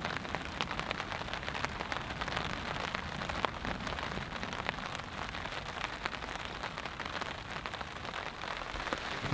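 Steady rain falling on a tarp overhead, with many separate drop hits ticking through the even hiss.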